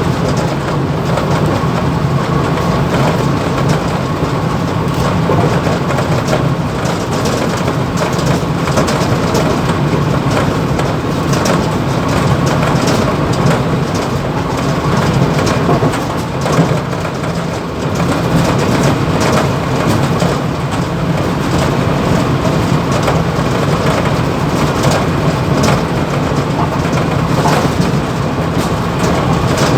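Mumbai local EMU train running, heard from inside the motorman's cab: a steady low running noise with constant rattling and clicking over it.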